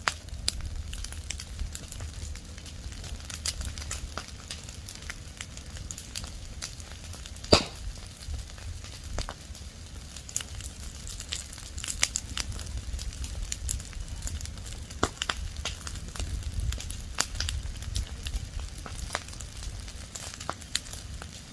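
Leaves and branches burning, crackling with many irregular sharp pops, one louder snap about seven seconds in, over a low rumble.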